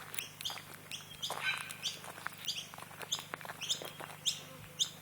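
Birds chirping: many short, high, rising calls repeated a few times a second, overlapping as from several birds.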